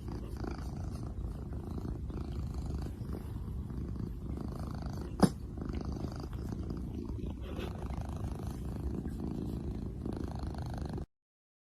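A cat purring: a steady low rumble, with one sharp click about five seconds in. It cuts off abruptly near the end.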